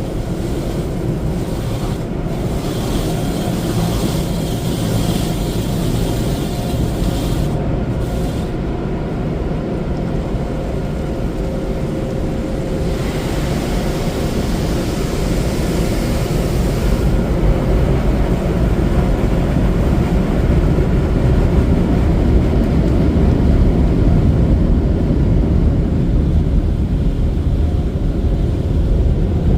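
Machinery and spray of an automatic car wash tunnel heard from inside the car: a steady low rumble, with a brighter rushing hiss of water or air in the first few seconds and again about halfway through, growing slightly louder toward the end.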